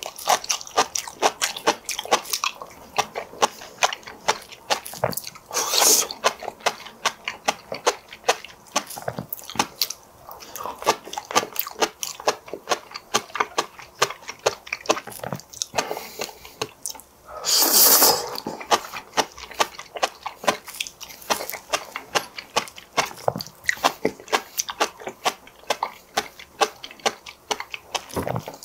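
Close-miked chewing of sea grapes: a dense run of small crisp pops and crackles as the tiny seaweed beads burst, with one longer, louder burst about 18 seconds in.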